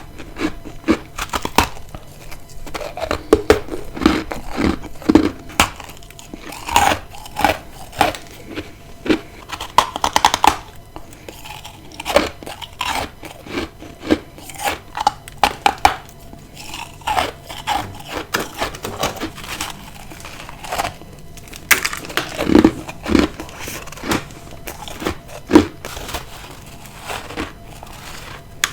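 A person biting and chewing ice close to the microphone: rapid, irregular crunches and crackles in clusters with short pauses between bites.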